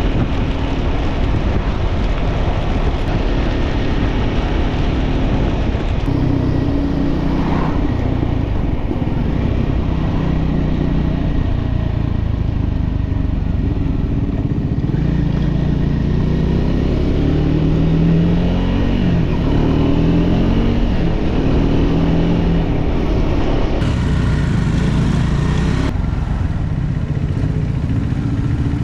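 Motorcycle engine running under way, its pitch rising and falling again and again as it accelerates and eases off, over a steady rushing noise.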